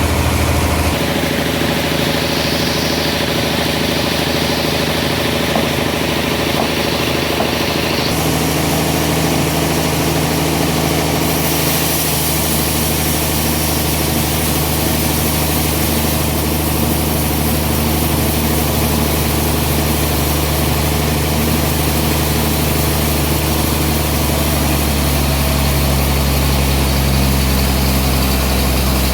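Sawmill machinery running steadily, a hum of several even low tones under a hiss, shifting abruptly a few times.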